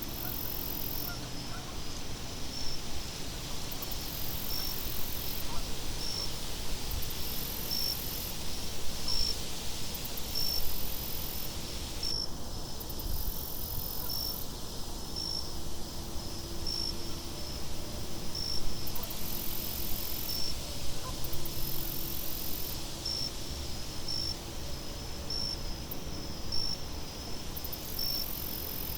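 Crickets chirping in a steady rhythm, about one chirp every second and a half, with a higher, hissing insect trill that comes and goes every few seconds, over a steady low wind rumble.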